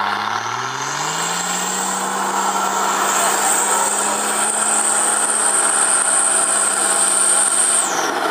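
A 4x4's engine revs up over the first second and holds at steady high revs for about seven seconds, with a high whine over it. Near the end the revs drop off.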